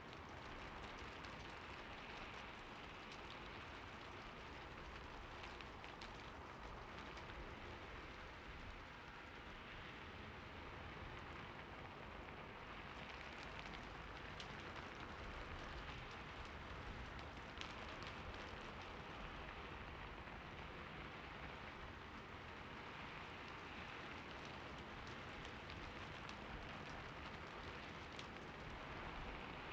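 Steady rainfall: an even, soft hiss with a few individual drops ticking sharply now and then.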